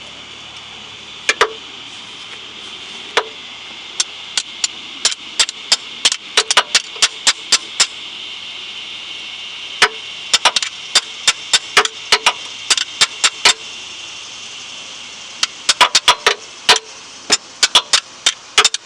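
Hammer tapping a butter knife wedged into the seam between a Toyota Corolla's oil pan and engine block, to break the old gasket seal: sharp metallic taps, some single and some in quick runs of several, over a steady hiss.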